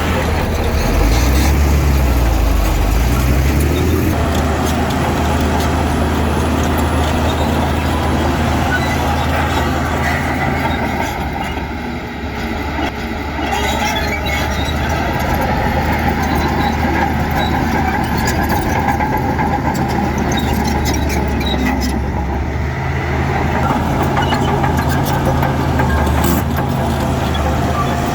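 Heavy diesel engines of earthmoving machinery running steadily, with the engine pitch rising and falling between about one and four seconds in.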